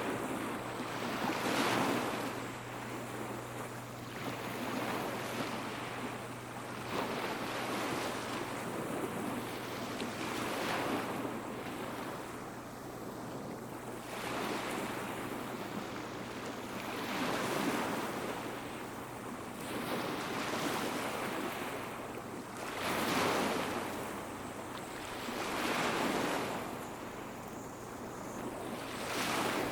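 Small waves breaking and washing up a beach, a surge about every three seconds.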